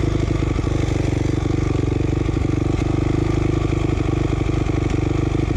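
2007 450R's engine idling steadily at a standstill, an even, unchanging pulse.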